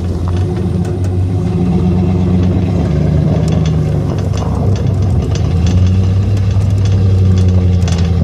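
Snow plow vehicle's engine running steadily at a low speed, its pitch dipping and rising slightly around the middle, with scattered light clicks and rattles over it.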